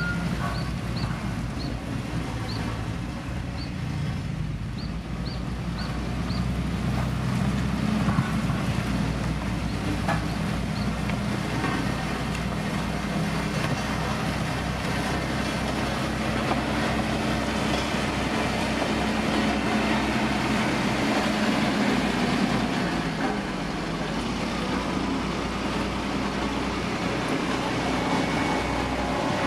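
Heavy road-construction machinery running steadily: the diesel engine of a motor grader or road roller working gravel, with a continuous low engine drone and the grind of the machine over the surface. A string of short high chirps sounds over it in the first few seconds.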